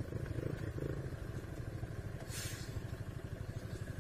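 Honda Biz 125's single-cylinder four-stroke engine running steadily under way, with a short hiss about two and a half seconds in.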